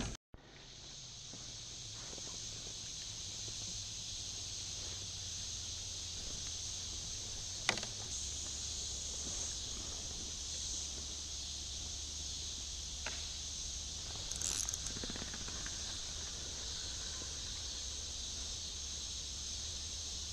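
Steady high-pitched insect chorus, with two faint knocks about 8 and 13 seconds in.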